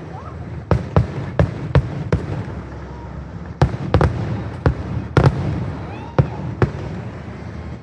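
Fireworks display going off in a quick, irregular series of sharp bangs, about a dozen, some in close pairs.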